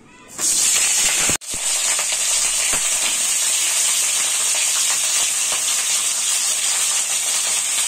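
Peeled pointed gourds (potol) dropped into hot mustard oil in a kadai, setting off a sudden, loud sizzle of frying that then holds steady. The sizzle breaks off for an instant about a second and a half in.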